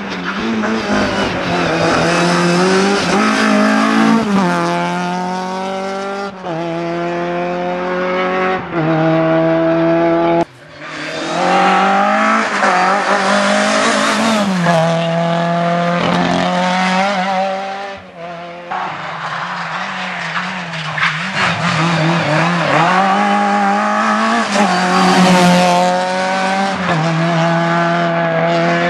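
VW Golf Mk2 rally car's engine at full throttle, climbing in pitch through each gear and dropping back at every change, with a sudden lift off the throttle about ten seconds in. Tyres squeal through the corners.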